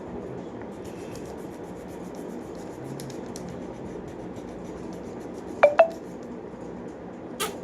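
Colour pencil scratching lightly on paper in short strokes, then two sharp clicks with a brief ring a fraction of a second apart past the middle, and another click near the end.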